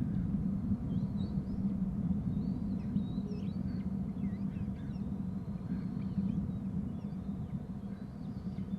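Faint, high bird calls, short chirps and quick pitch glides scattered through, over a steady low hum.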